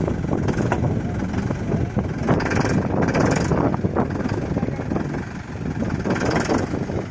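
Mahindra Yuvo tractor's diesel engine running.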